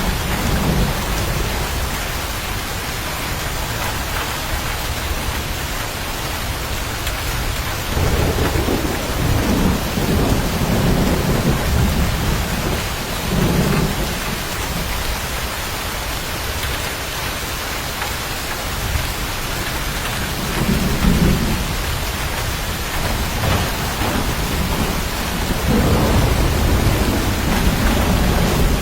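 Steady heavy rain with several long, low rolls of thunder rumbling in and fading, the longest a third of the way in.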